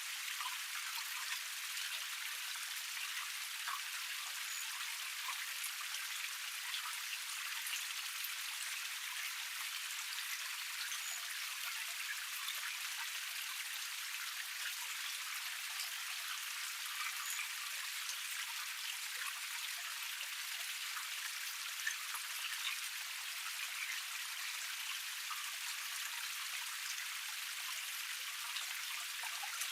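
Water of a small forest cascade splashing over rock steadily, a dense patter of drips and splashes over an even rush.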